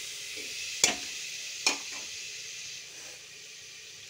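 Onion and red-chilli masala sizzling in oil in a steel pot as a steel ladle stirs it, the ladle clinking sharply against the pot twice, about one and two seconds in. The sizzle quietens near the end once the stirring stops.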